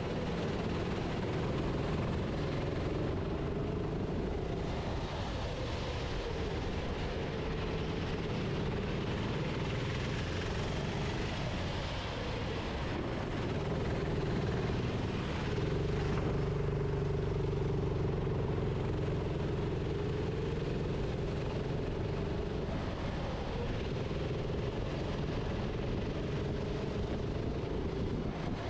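Go-kart engine heard onboard, its pitch rising and falling repeatedly as the throttle is opened and closed through the corners, with a steady haze of wind and road noise. It is loudest for several seconds around the middle.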